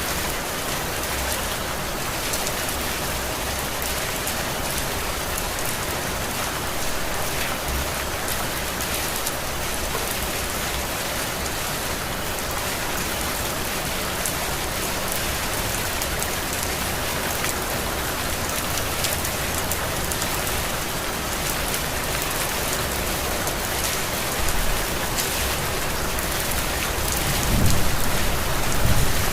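Heavy rain falling steadily, a dense even hiss of drops hitting surfaces. A low rumble swells near the end.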